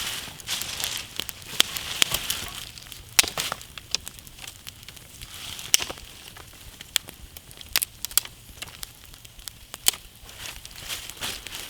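Wood campfire burning, crackling with irregular sharp pops over a steady hiss of flames.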